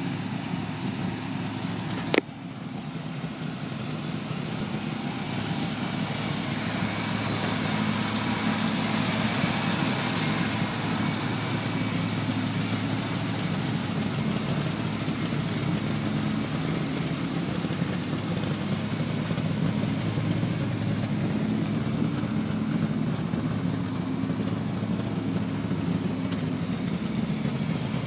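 Refuse truck engine running steadily, with a sharp knock about two seconds in; the sound then grows louder over a few seconds and holds.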